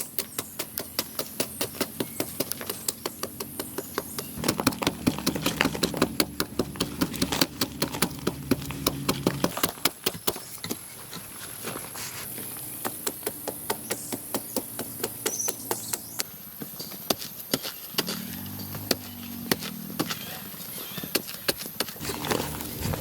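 Rapid, evenly spaced knocking of hand tools striking, about three strokes a second, easing off about halfway through. Low, wavering pitched sounds come in twice beneath the knocks.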